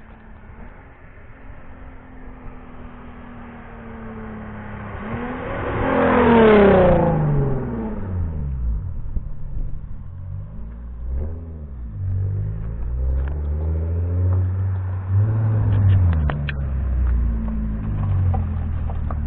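Infiniti G37 coupe's 3.7-litre V6 through an Exotic Speed cat-back exhaust with high-flow cats, which has an exhaust leak, accelerating past: the engine note climbs to its loudest about six seconds in, then drops away quickly. Lower engine rumble and shorter revs follow through the rest.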